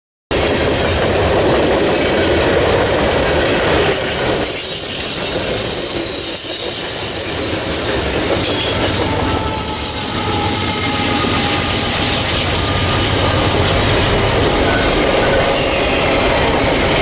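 A train rolling past at close range: a steady rumble and rattle of wheels on rail, with thin high-pitched wheel squeal over it. It cuts in suddenly from silence.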